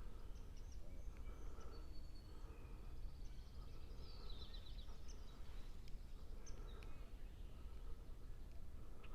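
Birds chirping faintly and intermittently, with a quick run of short falling notes about four seconds in, over a steady low rumble.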